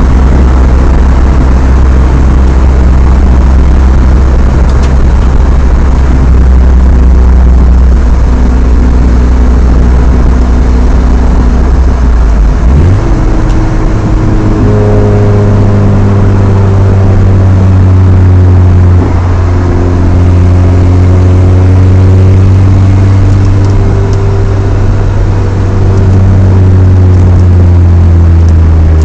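Chevrolet S10's 2.2-litre four-cylinder running through a Flowmaster 40 dual exhaust, heard from inside the cab while driving. It drones steadily, then its pitch rises about twelve seconds in and it holds a higher steady drone with a small change partway along. The owner says a slight exhaust leak near the stock manifold may make it sound a little hissy or raspy.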